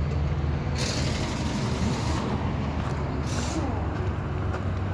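A steady low engine drone, as of a diesel idling, with short rushes of hiss about a second in and again past three seconds.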